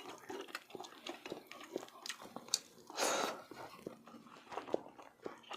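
A person chewing and eating close to the microphone, with many small wet mouth clicks and smacks. A short, louder rushing sound comes about three seconds in.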